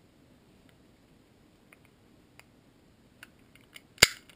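Small metal and plastic parts of a Hi-Capa pistol frame clicking as they are handled during disassembly, with one sharp, loud click about four seconds in.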